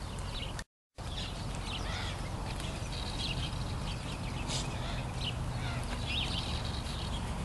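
Birds chirping and calling in short, scattered notes over a steady low rumble, with a brief cut to silence about a second in.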